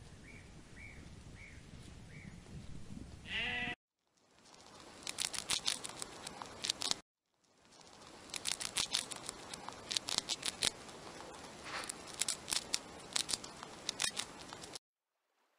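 A sheep bleats once, about three seconds in. Then a white dwarf hamster chews: rapid, crisp clicking and crunching in two runs, broken by a brief gap.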